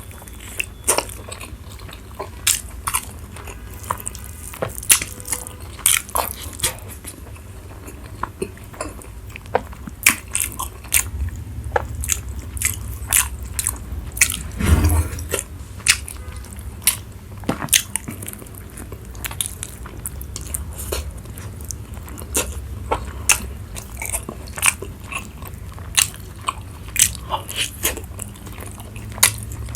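Close-miked chewing and biting of food, with many irregular sharp crunches. A longer, louder noise comes about halfway through.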